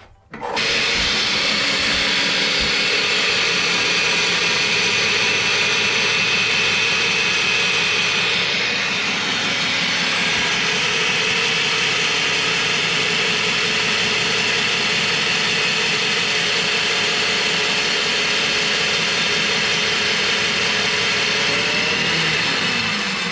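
A motor-driven machine running steadily, starting abruptly and winding down with a falling pitch near the end.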